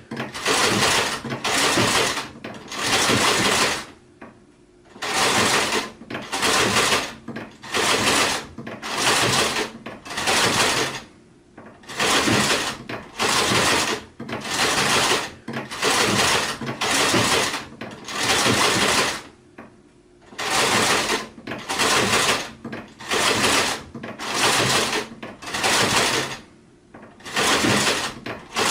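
Sewing machine stitching in short stop-start runs of about a second each, broken by brief pauses, with a few longer pauses of about a second.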